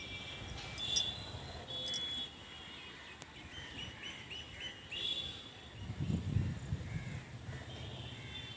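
Birds calling and chirping, with a run of short, quickly repeated calls near the middle. A brief low rumble comes about six seconds in.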